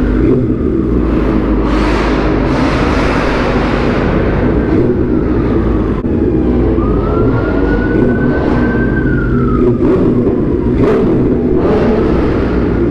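BMW S1000RR's inline-four engine running under the rider with steady road and wind noise. A police siren wails more faintly behind it, falling in pitch, then rising and falling again.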